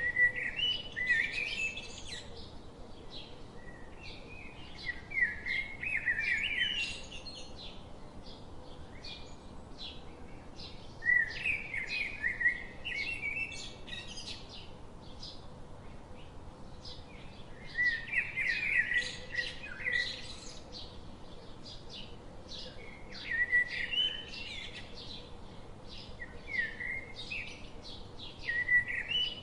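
A songbird singing short warbled phrases, one every few seconds, over a steady scatter of brief, high ticks.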